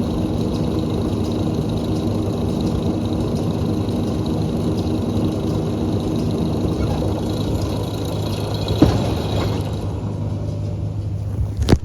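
John Deere 6125M tractor engine running steadily, with a thud about nine seconds in and a sharp knock near the end.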